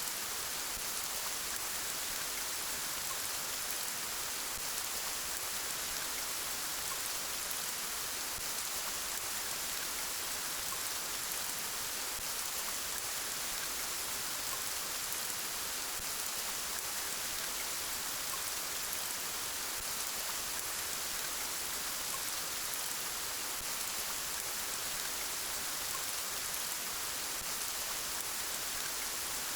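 Steady rain falling on a surface: an even hiss of many small drops.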